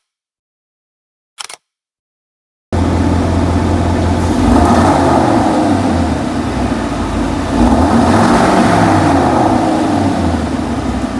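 A short click, then the Aston Martin DBX's twin-turbo V8 bursts into life about two and a half seconds in with a loud cold-start flare. It runs on at high revs, swelling louder twice, then begins to settle toward the end.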